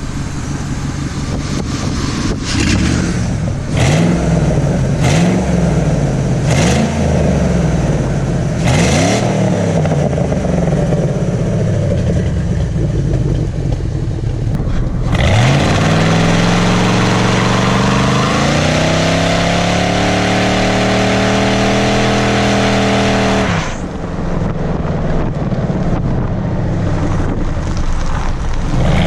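Straight-piped 1997 Ford F150's 4.6-litre Triton V8, its muffler replaced by flex pipe, being revved: about five quick blips in the first ten seconds, then a rev held for about eight seconds that drops back to idle. The exhaust also has a leak, which the owner says every Triton has.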